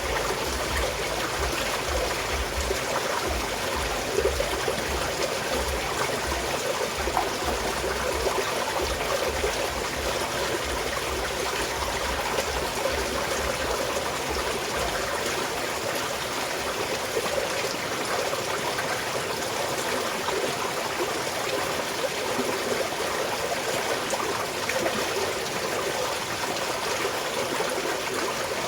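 Small mountain stream flowing and trickling steadily, with a low rumble underneath that fades out about halfway through.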